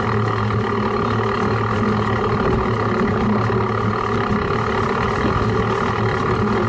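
Steady rumbling and rattling picked up by a camera mounted on the front of a cyclocross bike as the bike is pushed along with a side-cut front tyre.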